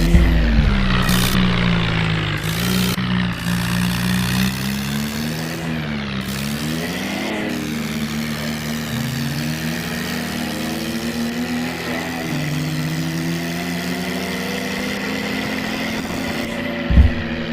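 Engine-sound effect of a radio-controlled toy tractor: a steady droning engine note that dips and swings in pitch a few times in the first half, then holds steady.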